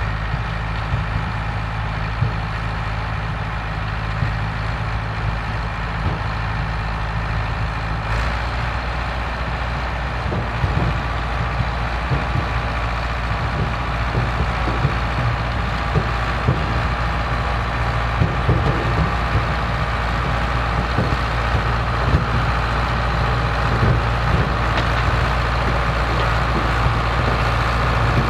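Vintage farm tractor engine running steadily under load, its tone changing about a third of the way in, with irregular rattling and knocking from harvesting machinery over it for the rest.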